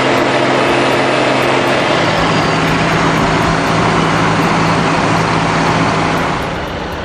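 Heavy diesel engine of a piece of earthmoving machinery running hard, with a loud, broad mechanical clatter over it. The engine note steps up about two seconds in, and the sound eases a little near the end.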